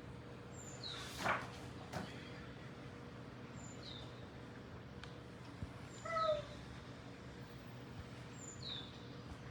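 Faint animal calls: short high falling chirps that repeat about every two and a half seconds, with one louder, lower call made of several tones about six seconds in, over a faint steady hum.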